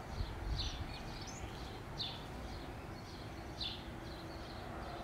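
Small bird chirping, short high calls repeating every second or two over a steady background hiss.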